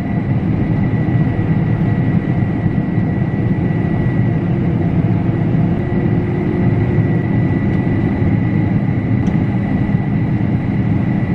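Combine harvester running steadily under harvest load: a loud low rumble with a thin, steady high whine over it.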